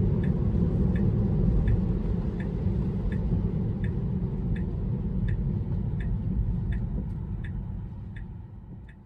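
Car turn-signal indicator ticking steadily inside a Tesla's cabin, a little under one and a half ticks a second, over a low rumble of cabin and road noise; it all fades out near the end.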